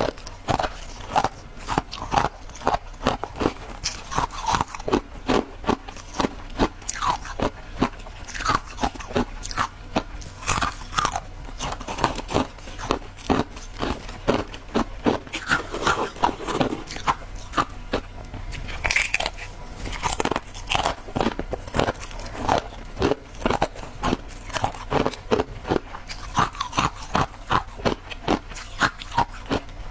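Shaved ice being chewed: a continuous run of sharp, crunchy bites, about two to three a second.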